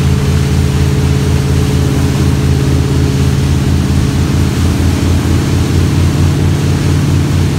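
Motorboat engine running steadily at speed, with an even low pulsing and a hiss of rushing air and water over it.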